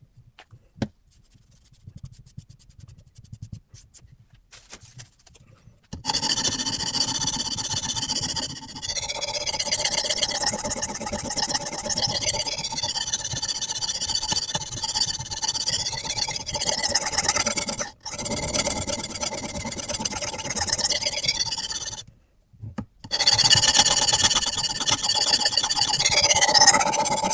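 Sharpening stone on a Hapstone RS guided sharpener rubbing along a carbon-steel knife blade: a continuous gritty scraping that starts about six seconds in, after a few faint clicks, with brief breaks between runs of strokes.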